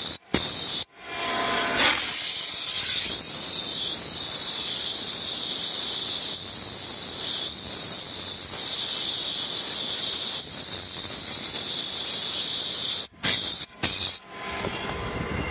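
Optima steamer's steam gun hissing steadily as it blasts pressurised steam. The jet cuts off and restarts a couple of times near the start and again near the end.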